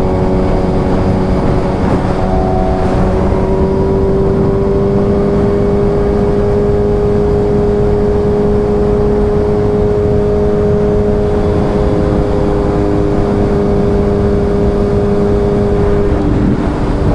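Suzuki Hayabusa inline-four with a Brocks Performance aftermarket exhaust running at steady highway cruising revs, the engine note holding an almost constant pitch after a slight rise a few seconds in, over wind and road rumble.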